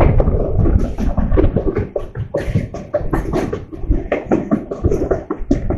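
Indian Railways passenger coach in motion: a dense, irregular clatter of knocks and rattles over a low rumble.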